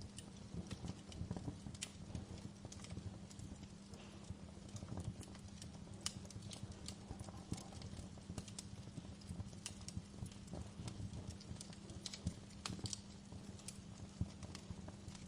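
Wood fire crackling in a fireplace, with irregular sharp pops over a low rumble.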